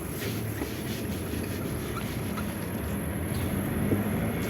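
Steady low rumble of a vehicle in motion, growing slowly louder toward the end.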